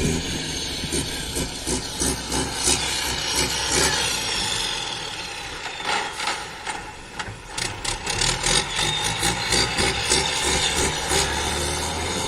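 Mack truck's diesel engine running with a rapid rattling pulse, dipping briefly in loudness around the middle.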